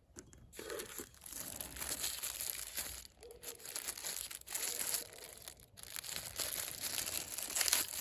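Plastic packaging crinkling and rustling as an accessory is handled and unwrapped, with a few brief pauses.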